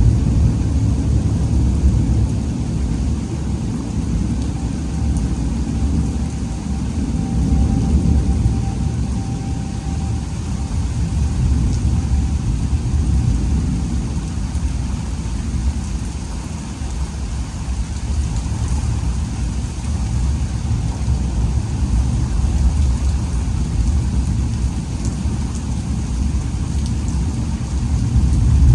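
Thunderstorm: rain with a steady low rumble throughout.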